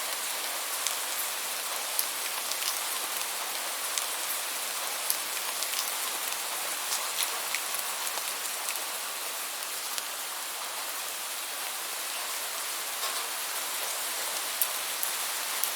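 Steady rainfall, an even hiss with scattered individual drops ticking sharply throughout.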